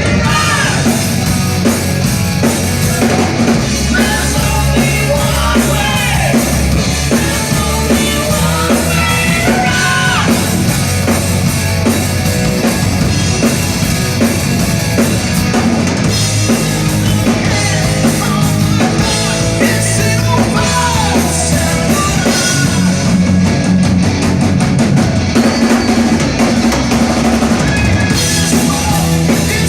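Live rock band playing loud and steady: a drum kit beat under bass and other instruments, with some singing.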